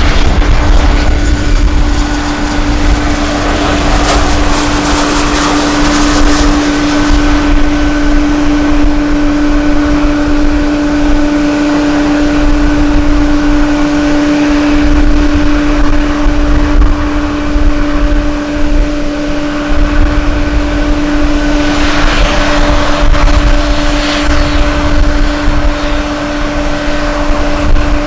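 Airliner engines running with a steady hum, swelling louder about four seconds in and again near the end, under a heavy rumble of strong wind buffeting the microphone.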